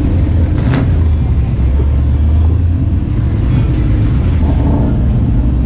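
Car engines running, a loud low rumble that swells for a couple of seconds about a second in.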